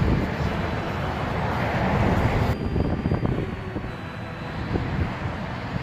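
Steady low rumble with hiss, changing abruptly about two and a half seconds in.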